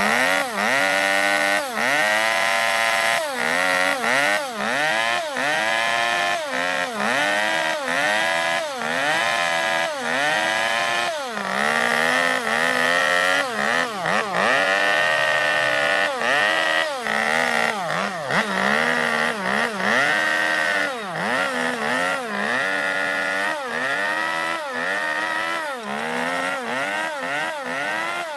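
Two-stroke chainsaw cutting into zelkova wood to hollow out a bowl. The engine pitch sags and recovers about once a second as the chain bites in and frees again.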